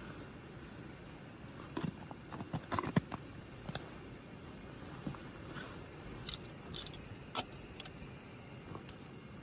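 Irregular light clicks and clinks, a cluster about two seconds in and a few scattered ones later, over a steady low background rumble.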